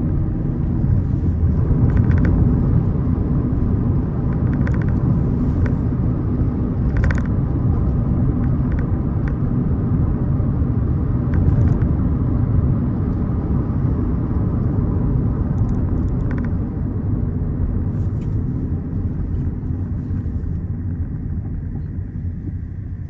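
Peugeot 207 driving, heard from inside the cabin: a steady low engine and road rumble with a few faint ticks and knocks, easing off near the end.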